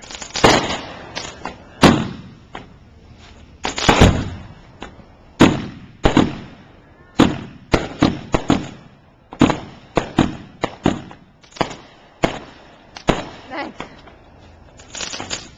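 Consumer fireworks going off: an irregular run of sharp bangs, one to three a second, each followed by a short echoing tail.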